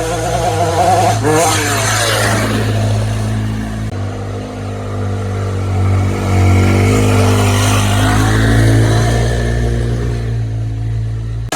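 Dirt bike engine running and revving, its pitch rising and falling with the throttle. The sound changes abruptly about four seconds in.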